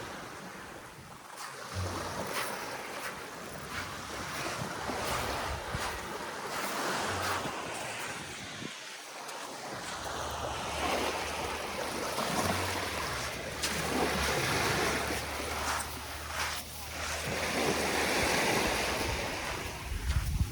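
Sea waves washing onto the beach, swelling and fading, with wind buffeting the microphone from about halfway through.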